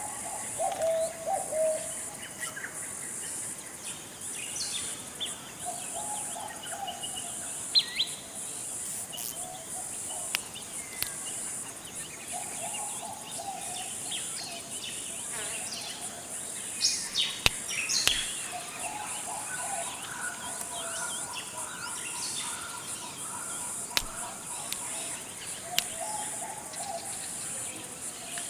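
Forest ambience: a steady high insect buzz under scattered bird chirps and whistles, with a lower call repeating every few seconds and a few sharp ticks.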